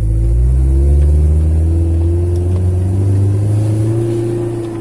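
Toyota Tacoma pickup's engine pulling under throttle, its pitch climbing steadily for about four seconds before the throttle is let off near the end.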